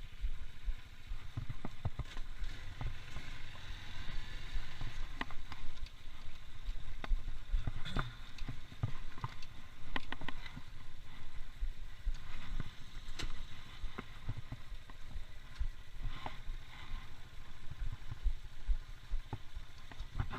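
A ride on a small motor scooter: wind buffets the microphone in a constant low rumble, under a faint steady engine whine, with scattered knocks and clicks.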